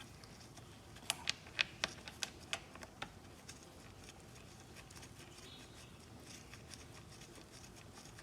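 A quick run of about eight light clicks and taps from a screwdriver and screw as the air-filter housing screw is set and driven in, then only faint handling.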